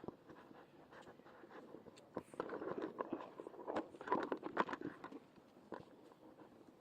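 Rustling, scraping and irregular taps on a microphone as it is handled and fitted, busiest in the middle.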